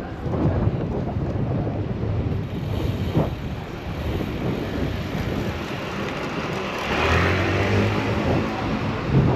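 City street traffic noise heard from a moving bicycle, with a steady low rumble. It grows louder about seven seconds in, as a motor vehicle comes close.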